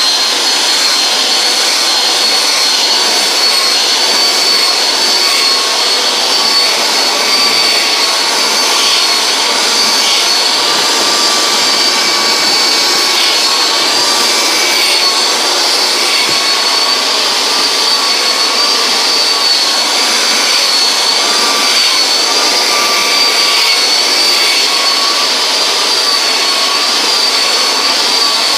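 Conair styler hair dryer with a comb attachment running steadily on the hair: an even rush of air with a high whine that wavers slightly.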